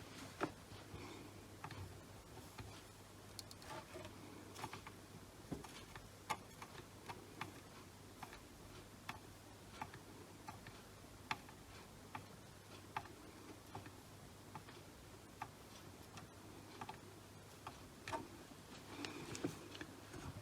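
Faint, light clicks of a soldering iron tip and small tools tapping against the legs of a surface-mount chip on a circuit board, coming irregularly about once a second over a faint low hum.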